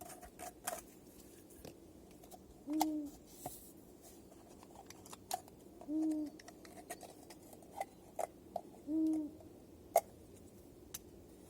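A low, single hooting call, repeated three times about three seconds apart, with faint scattered clicks and knocks between.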